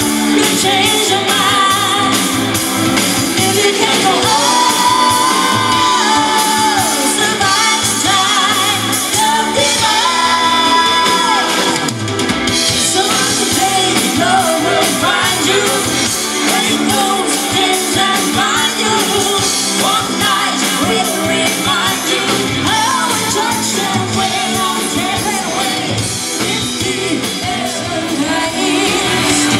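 Rock band playing live with a lead singer, amplified and loud, the vocals held over a full band.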